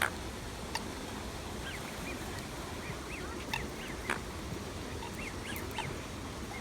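A flock of birds calling while being fed, a scatter of short chirping calls one after another, with a few sharp clicks among them.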